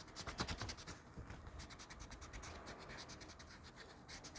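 Eraser rubbing on paper in quick back-and-forth strokes, faint, in short runs with brief pauses, rubbing out pencil lines of a drawing.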